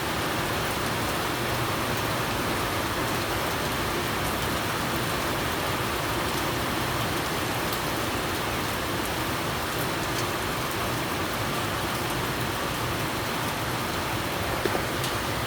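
Steady rain falling and pattering on surfaces, with an occasional louder drip or tick, one of them sharp near the end.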